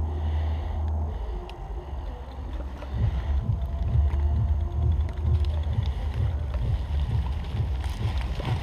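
Wind buffeting the microphone: a low, uneven rumble that gusts harder about three seconds in.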